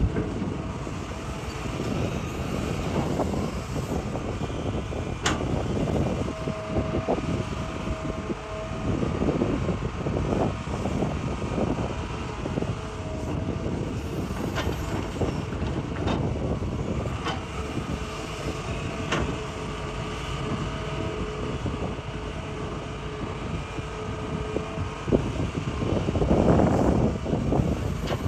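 Hitachi excavator digging rock: its engine and hydraulics run under changing load, with a faint whine that comes and goes. A few sharp clanks stand out, and the machine swells louder near the end.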